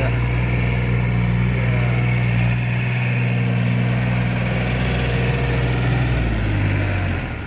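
Tractor engine idling with a steady low throb, dropping a little in pitch near the end.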